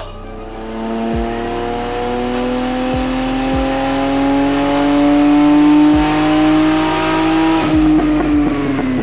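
Turbocharged 1986 BMW 3 Series drift car's engine making a full-load pull on the dyno: the revs climb steadily for about seven seconds, then drop near the end as the throttle is released. A few low thumps come along the way.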